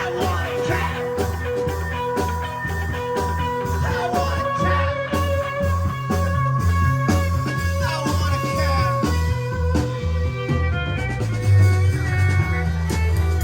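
Live psychedelic rock band playing an instrumental passage: held electric guitar notes over a fast pulsing bass line and drums, with the bass shifting to a new note about eleven seconds in.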